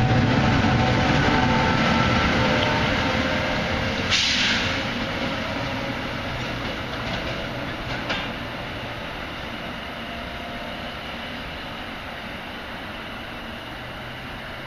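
NJ Transit electric-locomotive train passing close at speed: a loud rumble and hiss of wheels on rail that gradually fades. A sharp clack comes about four seconds in, and a smaller one near eight seconds. After that only a quieter, steady rumble remains.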